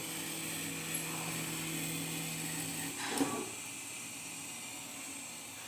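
CNC diamond glass-cutting machine running with a steady hum and a high whine. About three seconds in, the hum stops with a short noisy burst, and a fainter steady whine continues.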